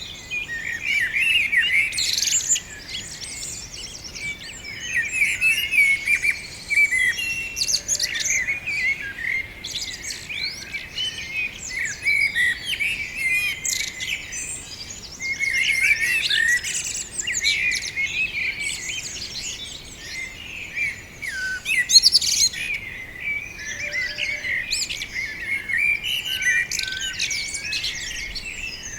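Songbirds chirping and singing: a dense, unbroken chatter of many overlapping short chirps and quick high twitters.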